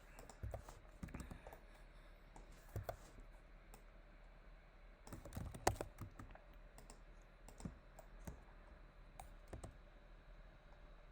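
Faint, scattered clicks of a computer keyboard and mouse, irregular single keystrokes with a small cluster about five to six seconds in.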